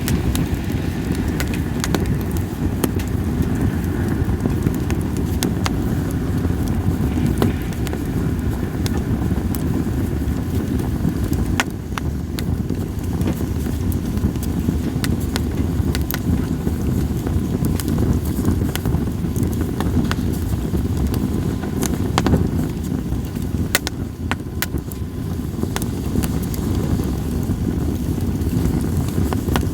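Campfire of split sawtooth oak (kunugi) firewood burning, with sharp crackles and pops scattered irregularly over a steady low rumble.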